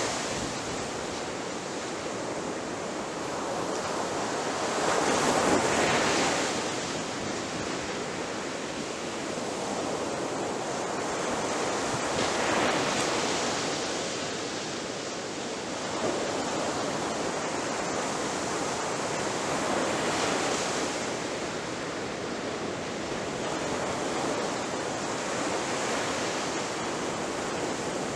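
Sea waves breaking on a shore, a continuous rushing wash that swells with each wave about every seven to eight seconds.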